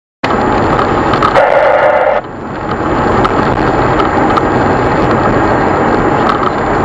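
Loud, dense noise of a car on the move, cutting in abruptly from silence a quarter second in; a harsher rush in the middle pitches lasts under a second before it drops back to the steady road noise.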